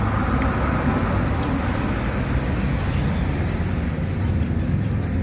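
Road traffic passing on a two-lane road: a steady rumble of vehicles going by.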